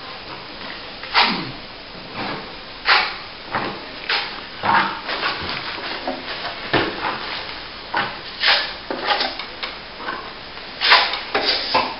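Steel plastering trowel spreading and scraping wet top-coat plaster over a plasterboard ceiling repair, in a series of uneven strokes about a second apart.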